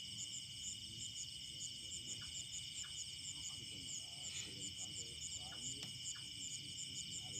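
Steady chorus of insects: a shrill, even drone with fast repeating chirps high above it. Faint voices sound in the distance beneath.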